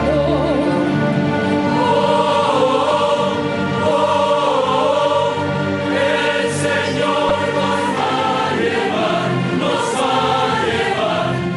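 A choir singing sacred music in sustained, overlapping notes, some held with vibrato.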